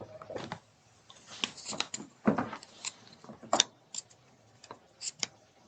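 Scattered faint, irregular clicks, a dozen or so short ticks with quiet gaps between them.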